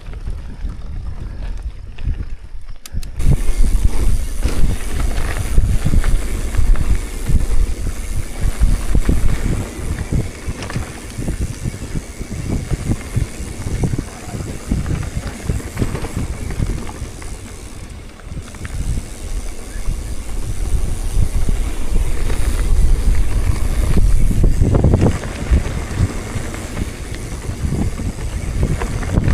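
Wind buffeting the microphone while on the move, a gusting low rumble that jumps up about three seconds in.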